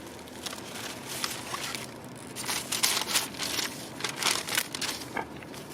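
Paper packaging of hot malasadas crinkling and rustling as it is opened and handled: irregular crackles that grow busier about two seconds in.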